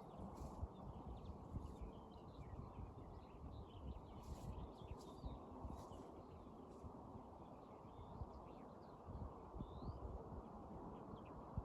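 Outdoor nature ambience: a steady low rushing noise with many small, scattered bird chirps over it and a few faint clicks.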